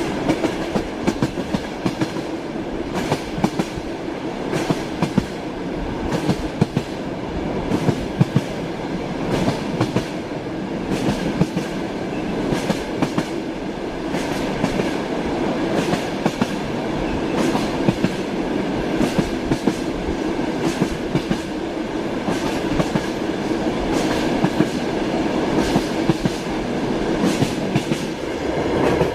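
Train running on rails: a continuous rumble with the clickety-clack of wheels knocking over rail joints, in frequent irregular clicks.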